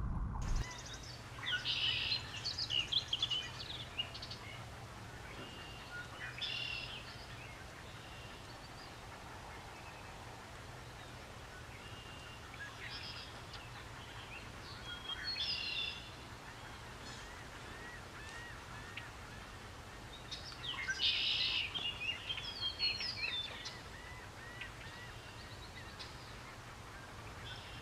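Wild birds calling in scattered bursts, loudest about two seconds in and again around twenty-one seconds, with a run of short, evenly repeated notes in between. A steady low hum runs underneath.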